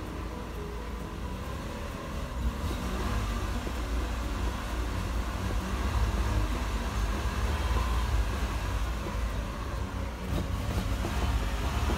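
Toyota Alphard's 2.4-litre four-cylinder engine revved with the car standing still, heard from inside the cabin. The revs swell and dip as the throttle is blipped in a rhythmic 'call', getting louder about two and a half seconds in.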